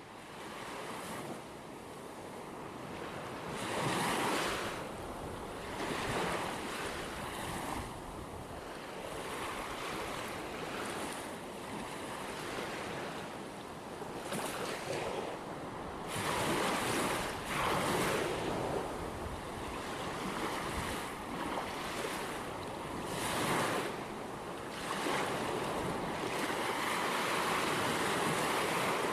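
Ocean waves breaking and washing on a shore, each wave a swell of rushing surf that fades before the next. Wind noise on the microphone runs under the surf.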